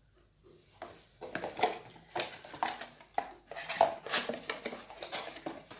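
Small household items being handled and set down: a run of irregular light clinks, taps and knocks that starts about a second in.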